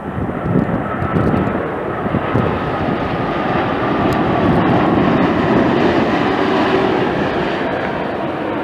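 Jet airliner passing close by, a steady engine roar that swells toward the middle with a faint whine slowly falling in pitch. Wind buffets the microphone near the start.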